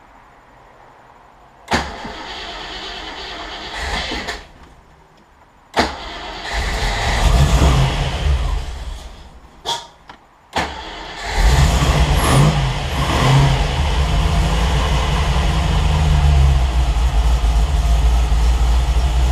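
Cold start of a Triumph TR8's Rover 3.5-litre V8: the starter cranks without a catch, cranks again and the engine fires, runs a few seconds and dies, then catches on a further crank with a blip of throttle about twelve seconds in and settles into a steady idle. It would not start without a bit of gas, a sign of too little cranking fuel or idle air when cold, which the owner suspects.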